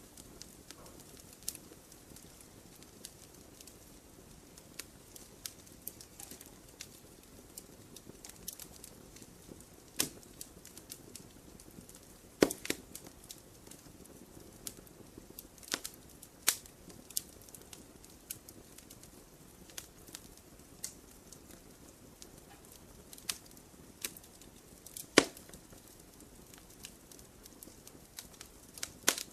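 Wood campfire crackling: irregular sharp pops and snaps over a faint steady hiss of burning, with a few louder snaps, the loudest about twelve and twenty-five seconds in.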